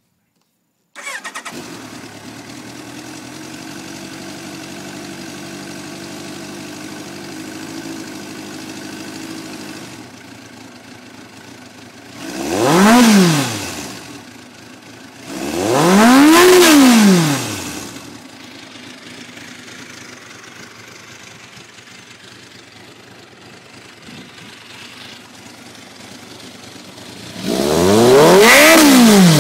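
Kawasaki GPz1100's air-cooled inline-four engine idling steadily, blipped twice so the revs rise and fall, then revved and held high near the end. It runs evenly, sounding healthy.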